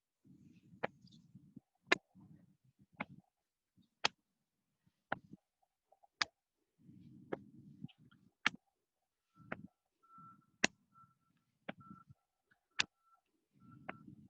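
Hands patting the upper chest at the shoulder junction, sharp pats in a steady rhythm of about one a second, with soft rustling of clothing between them.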